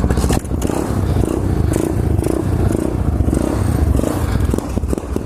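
A 2015 SSR 125cc pit bike's single-cylinder four-stroke engine running as it is warmed up, with a brief dip about half a second in.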